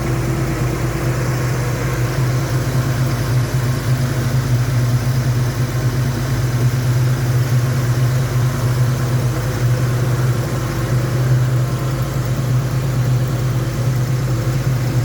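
1967 Ford Mustang's 200 cu in (3.3 L) inline-six engine idling steadily through a split 6-into-2 exhaust, its two pipes never joining, giving an even low exhaust note.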